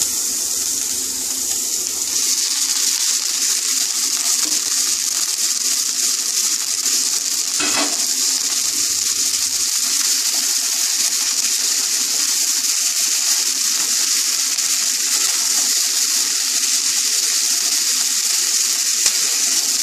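Vegetables and freshly added boiled pasta sizzling steadily in hot oil in a non-stick pan while being stirred with a wooden spatula, with a single brief knock about eight seconds in.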